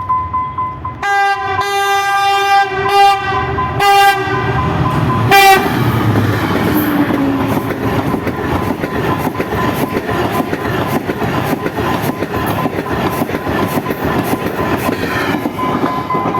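A diesel locomotive's horn sounds in a series of short blasts. A train then passes close by, a steady rumble with a fast run of wheel clicks over the rail joints.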